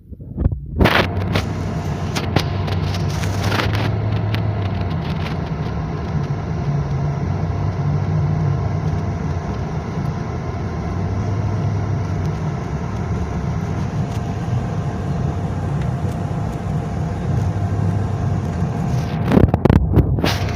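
Steady low rumble of a car running, with a faint steady whine over it; a few sharp knocks about a second in and again near the end.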